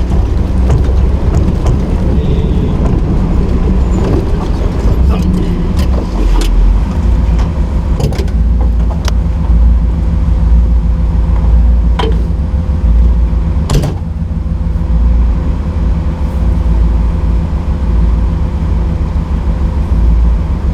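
Nissan GQ Patrol competition truck's engine running steadily under load, heard from on board, with several sharp knocks and bangs from the truck along the way.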